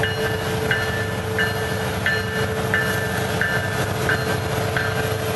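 Train led by a diesel locomotive running, a steady rumble, with a bell dinging about every two-thirds of a second.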